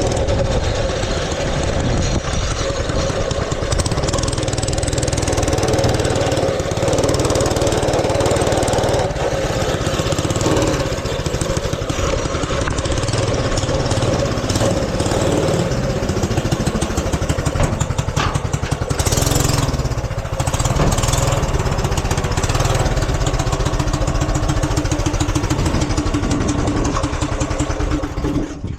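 Mini bike's small engine running steadily throughout.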